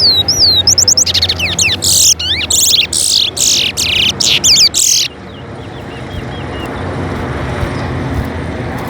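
Caged towa-towa finch singing a fast, loud song of rapid sweeping whistled notes that stops abruptly about five seconds in, leaving a few faint chirps over a steady low background hum. It is a song bout in a bird-singing race, where each song is counted.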